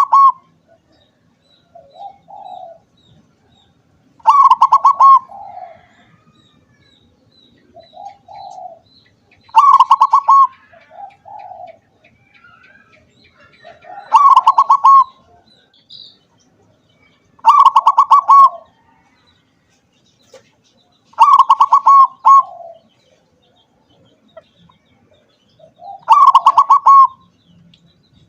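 Zebra dove (perkutut) singing its song over and over, about every four to five seconds: a few soft low coos, then a loud, fast rattling trill that trails off.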